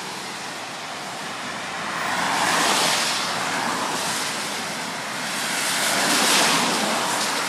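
Road traffic passing close by: the rushing noise of tyres and engines swells as one vehicle goes by about two to three seconds in and another around six seconds in.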